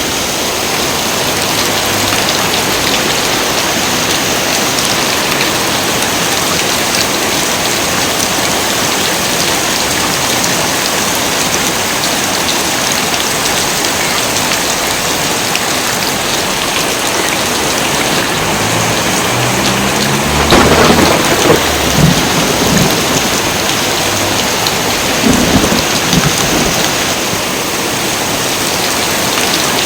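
Heavy rain pouring steadily, with a loud roll of thunder about twenty seconds in and a shorter rumble a few seconds later.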